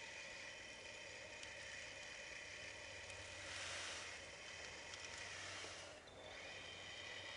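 Faint, steady whine of the electric drive and hydraulic pumps of radio-controlled scale construction models, with a hissing, rustling swell about 3.5 s in that lasts about two seconds.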